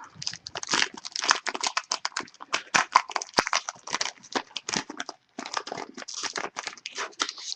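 Trading-card pack wrapper being torn open and crinkled by hand: a rapid, irregular run of crackles and rustles, with a sharper snap about three and a half seconds in.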